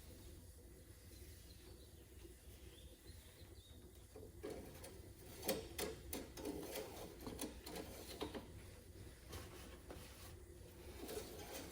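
Faint handling noises: a cluster of light clicks and scrapes about halfway through, as the engine's oil dipstick is pulled out and wiped to read the level.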